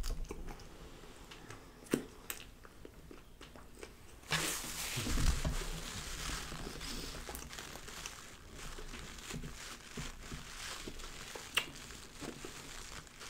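A bite of submarine sandwich being chewed close to the microphone: soft crunching and mouth sounds, with a few light clicks and a denser stretch of chewing noise starting about four seconds in.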